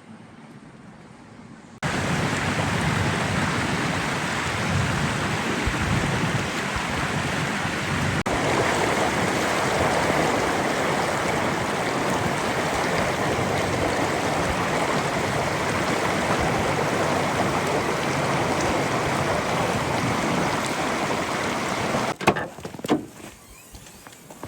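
A steady rushing noise that starts suddenly about two seconds in, holds an even level, and cuts off near the end, followed by a few sharp knocks.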